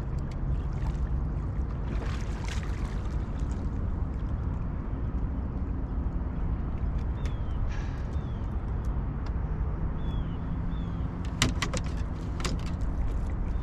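Steady low rumble of wind and river current around a boat on the water, with a faint hum under it. A few short falling chirps come through in the middle, and a couple of sharp knocks sound near the end.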